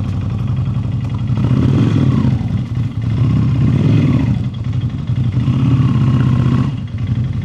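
Ducati Scrambler Desert Sled's air-cooled L-twin engine running, its note swelling three times as the throttle is opened and eased, dropping back briefly between.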